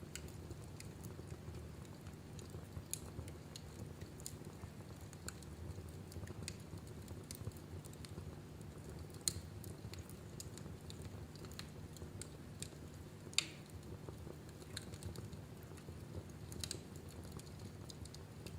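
Wood fire burning in a fireplace: a steady low rumble of the flames with irregular crackles and pops, two sharper pops about nine and thirteen seconds in.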